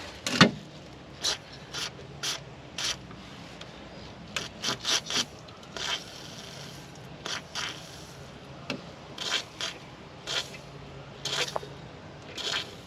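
Aerosol can of penetrating fluid sprayed in several short hissing bursts onto a rusted fitting, among irregular clicks and knocks of handling the can and tools.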